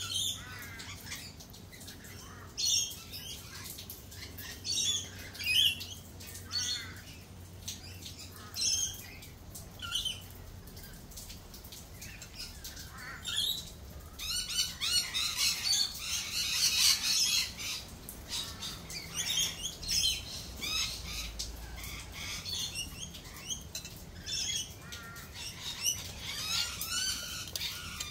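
Birds calling: a run of short squawks and chirps a second or two apart, with a busy stretch of overlapping chattering calls about halfway through and more calling near the end.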